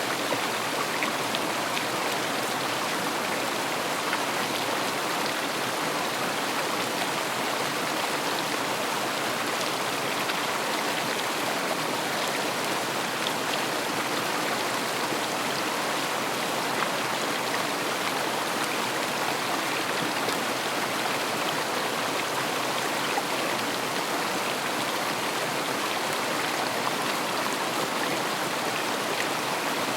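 River water flowing and rushing steadily over stones, an even wash of sound with faint scattered splashes.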